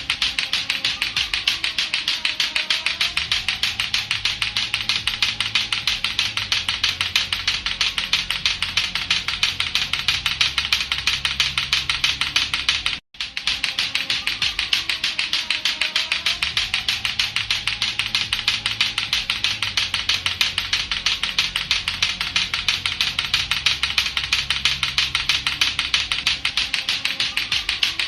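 Latto-latto clacker balls, two hard plastic balls on a string, knocking together in a rapid, steady clacking rhythm, with a brief break about thirteen seconds in.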